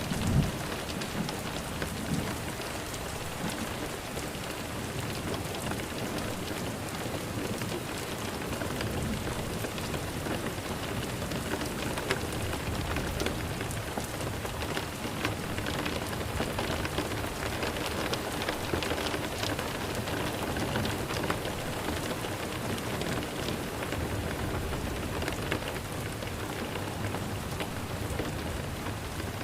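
Steady rain falling, an even hiss dotted with many small drop ticks. There is a brief low rumble at the very start.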